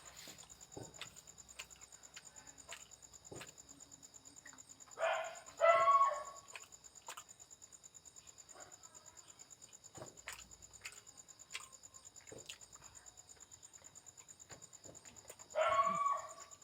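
A dog giving short pitched barks or yelps, a pair about five seconds in and another near the end, over a steady high-pitched whine and scattered faint clicks.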